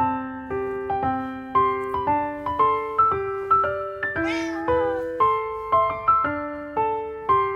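Gentle piano music with evenly struck notes, and a single cat meow about four seconds in, rising and then falling in pitch.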